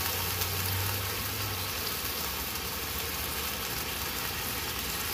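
Hamburger patty sizzling steadily in its fat on a flat electric griddle, with a low hum during the first couple of seconds.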